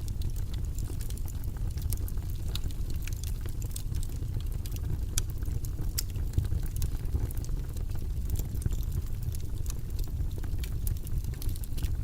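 Steady low-pitched white-noise background with scattered light clicks.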